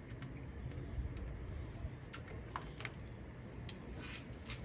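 Light metallic clicks and clinks from hand tools and a just-removed spark plug being handled, a few scattered taps in the second half.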